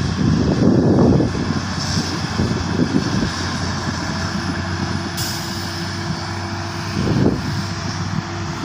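Heavy diesel engine of an excavator working at a dump truck, running steadily, with rough noisy surges near the start and about seven seconds in, and a steady whine for the second half. A short hiss comes about five seconds in.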